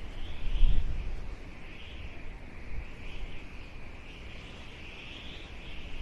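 Outdoor nature ambience: a steady, high, wavering chorus of insects, with wind gusting on the microphone, strongest about a second in.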